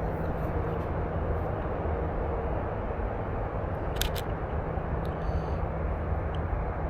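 Canon EOS RP camera shutter clicking once about four seconds in, over a steady low rumble.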